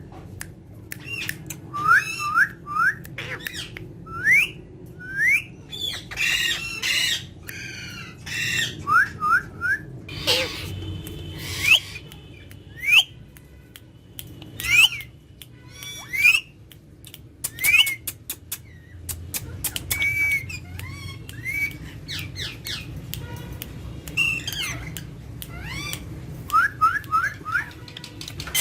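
Pet parrots calling: many short rising whistled chirps, often in quick runs of three or four, with a few harsher squawks and sharp clicks in between.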